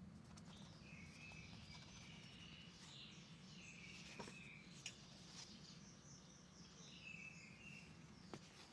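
Faint high chirping in short phrases, likely birds, over a steady low hum, with a few faint clicks.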